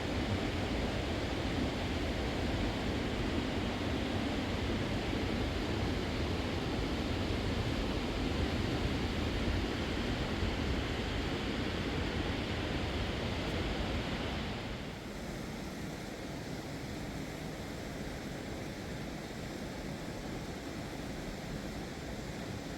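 Rushing mountain river water, a steady hiss and rumble; about two-thirds of the way through it becomes quieter and duller.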